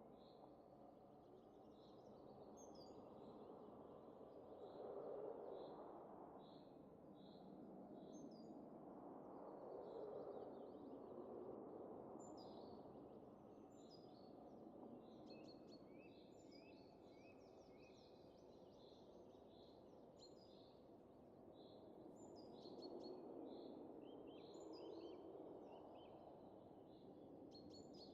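Soft wind rising and falling in slow gusts, with small birds chirping many short high notes over it, busier in the second half.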